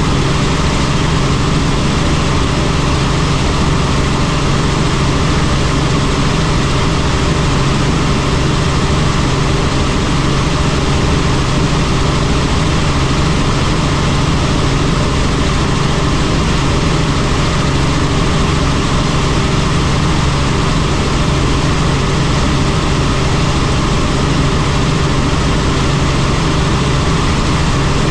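Helicopter in flight: steady, loud engine and rotor noise with a constant low hum, unchanging throughout.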